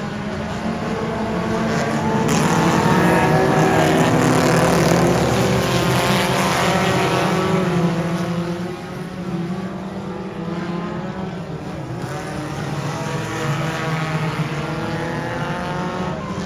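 Several dirt-track race cars' engines running at speed, with layered engine tones. The cars get louder about two seconds in as they pass close, then ease off about eight seconds in.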